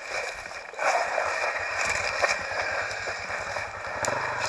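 Honda CRF250X enduro motorcycle's single-cylinder four-stroke engine idling with an even low pulse, which becomes clear about a second in, under rustling and scuffing noise.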